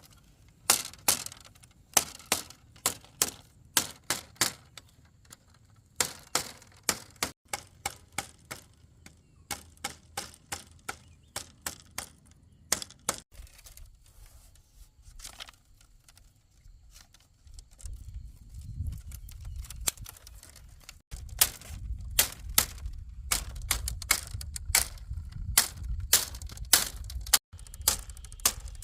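Hand tool striking bamboo or timber again and again, sharp knocks about two a second with short pauses; a low rumble sits under the strikes in the second half.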